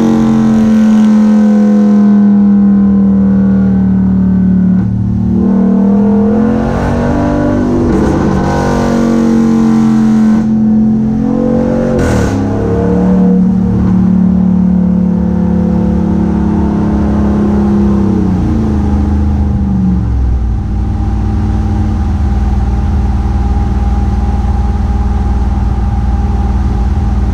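A 2018 Ram 1500's 5.7 Hemi V8 running through a Black Widow Widow Maker muffler with the resonator deleted. The exhaust drones at steady revs, rising and falling in pitch a few times, then drops to a lower steady drone about two-thirds of the way through.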